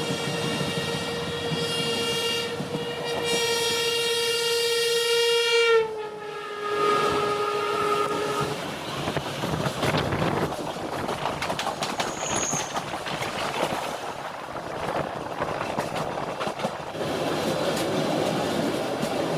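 Train horn sounding a long steady note for about six seconds, then dropping to a lower note that stops at about eight and a half seconds. After that, the train running along the track, with rumble and the clack of wheels over rail joints.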